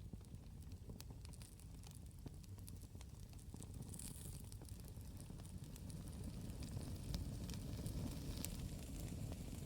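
Wood campfire crackling, with frequent sharp pops and snaps over a low rumble of the burning fire that swells slightly toward the end.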